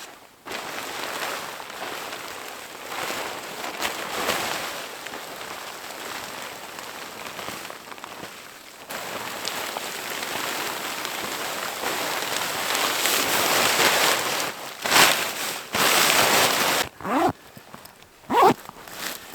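Stiff, cold tent fabric rustling and crinkling as the hot tent is stuffed into its bag, in long stretches of scrunching that swell and drop off. Near the end come a few louder short bursts, two of them with brief sweeping sounds.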